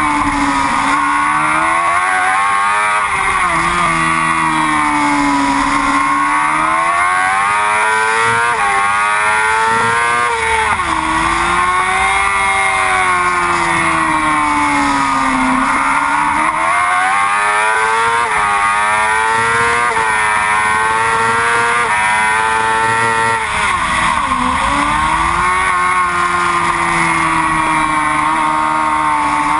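Racing sport-bike engine at high revs through a lap, its pitch climbing under acceleration and falling off repeatedly, with several sharp drops as the rider brakes and shifts down for corners.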